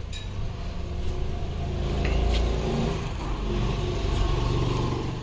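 A motor vehicle's engine running steadily with a deep rumble, swelling and easing a little at times.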